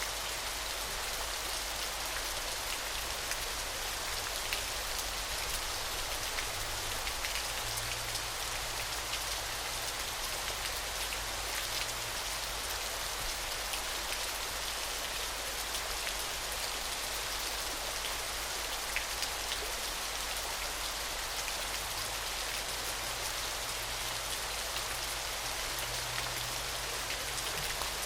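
Falling water: a steady, even hiss of water splashing, thick with fine droplet ticks.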